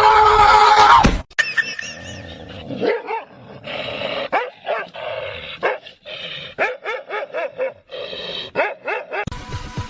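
Dog barking and yipping repeatedly in short, closely spaced barks, after a loud drawn-out cry that cuts off about a second in.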